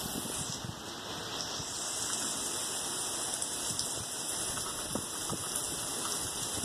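Heavy rain falling: a steady hiss of rain with scattered splashes of single drops.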